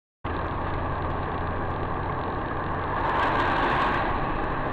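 Steady car road and engine noise as picked up by a dashcam, starting abruptly a moment in and swelling a little past the middle.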